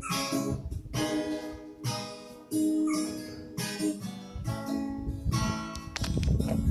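Acoustic guitar strummed in an instrumental break between sung verses. A chord is struck about once a second and each is left to ring.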